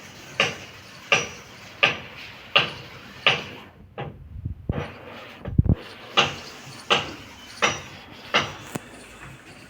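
A sharp knock or clack repeating at an even pace, about three every two seconds. It breaks off for about two seconds in the middle, where a low rumble comes in, then resumes.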